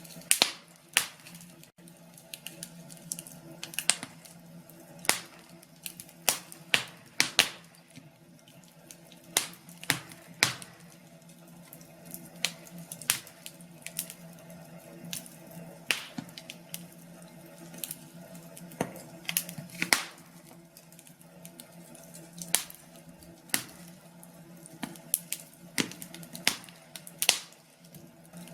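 Wood fire crackling, with sharp irregular pops and snaps, one to three a second.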